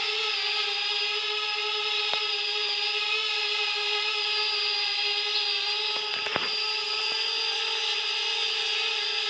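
Parrot Bebop 2 quadcopter's electric motors and propellers whining steadily at nearly constant pitch, with a few faint clicks about 2 seconds in and again around 6 seconds in.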